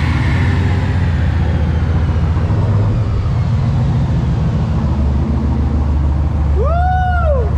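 Turbocharged engine on a chassis dyno after a pull: a high whine slides down in pitch as it winds down, over a steady low engine drone. Near the end a short tone rises and then falls in pitch.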